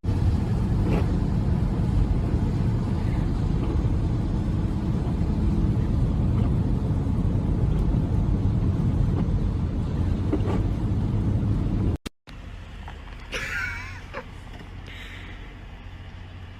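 Steady low rumble of a car driving, with a couple of faint knocks. It cuts off suddenly about twelve seconds in, giving way to a much quieter background with two brief faint sounds.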